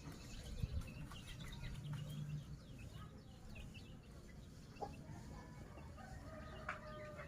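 Faint bird calls: many short, high chirps in the first few seconds, then a few longer, lower calls near the end.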